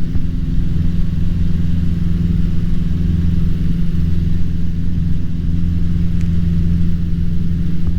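Cessna 150's Continental O-200 engine and propeller running steadily in flight, a constant low drone heard from inside the cockpit, the aircraft climbing out in the pattern after takeoff.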